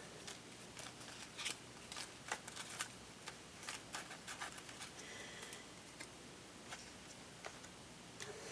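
Paper scrapbook pieces and die cuts being handled and sorted: faint, scattered paper rustles and light ticks.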